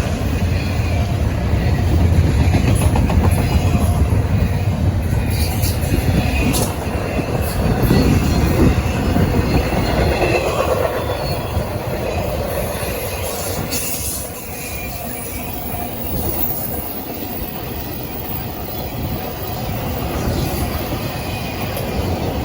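Train rolling past, wheels clacking over the rail joints, with thin wheel squeals in the first half. The rumble is loudest early on and eases off after about 14 seconds.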